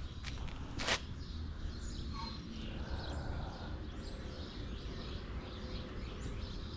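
Birds chirping faintly over a low, steady rumble, with two sharp clicks in the first second.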